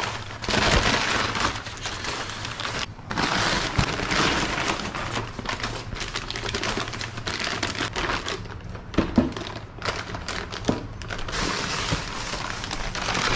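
Packing material crinkling and rustling as parts are unwrapped from a shipping box, in stretches with short pauses and a few light knocks.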